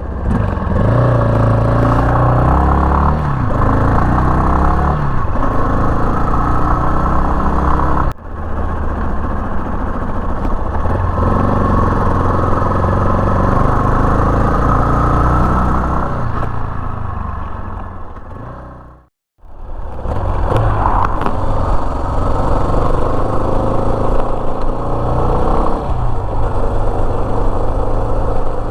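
Yamaha Serow 250's air-cooled single-cylinder engine running while riding, its pitch rising and falling with the throttle and gear changes. The sound breaks off sharply at about eight seconds, and again with a brief silence near nineteen seconds.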